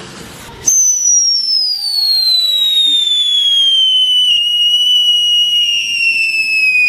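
Whistling garden firework going off: a loud whistle starts suddenly about a second in and slowly falls in pitch for about six seconds, ending with a few crackles.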